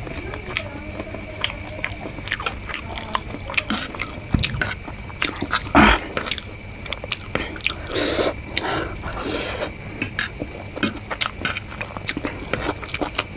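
Close-miked chewing and mouth sounds of someone eating egg chow mein, with many small clicks as a fork stirs the noodles on the plate. There is a louder knock about six seconds in.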